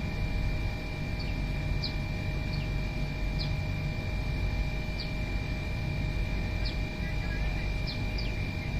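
A small bird chirping repeatedly: short, high, falling chirps about once a second, some in quick pairs. Under them run a steady low rumble and a steady high tone.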